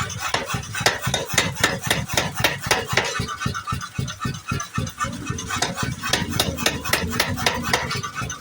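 Power hammer pounding steel, a fast, even run of metallic blows at about five or six a second.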